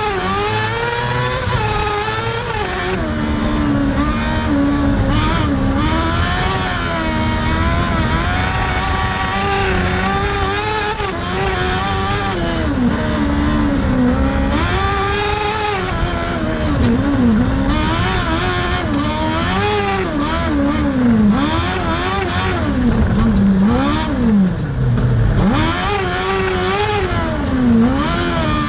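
Kartcross car's motorcycle engine racing hard, its pitch climbing and dropping again every second or two as the driver accelerates, shifts and lifts for corners.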